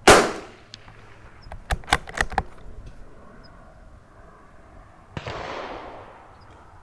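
A single sharp shot from a Tikka T1x .22 LR rimfire rifle firing Norma TAC22, followed about two seconds later by a quick run of four or five metallic clicks as the bolt is worked to eject the case and chamber the next round. A quieter bang that fades over about a second comes about five seconds in.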